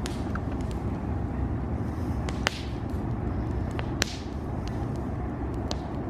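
Campfire crackling, with scattered sharp pops, the two loudest about two and a half and four seconds in, each trailing a brief hiss, over a steady low rumble.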